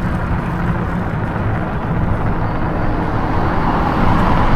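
Steady wind rush and low rumble on the microphone with tyre and road noise from an e-bike being ridden, growing a little louder near the end.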